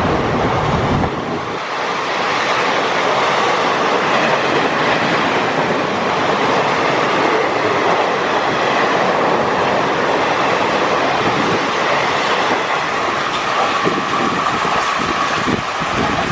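Train coaches rolling past at speed, a steady rumble with wheels clattering over the rail joints and a few sharper knocks near the end, mixed with heavy rain.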